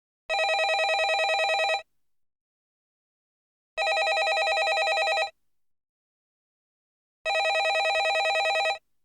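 Landline telephone bell ringing: three rings of about a second and a half each, one starting every three and a half seconds, each with a rapid trill and silence in between.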